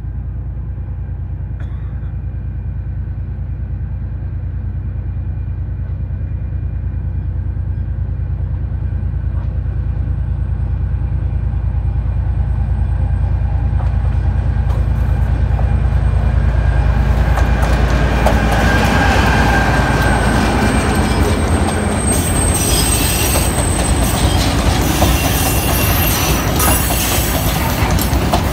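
Diesel locomotive of a narrow gauge gypsum ore train approaching with a low engine rumble that grows steadily louder, then passing. From about two thirds of the way in, the ore cars roll by with wheels squealing in a thin high tone and clattering on the rails.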